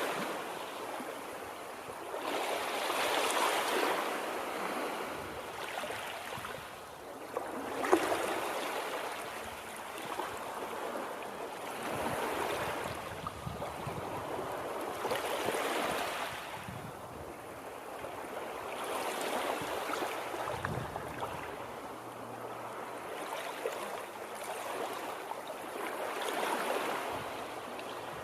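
Water rushing and washing, swelling and falling back every few seconds.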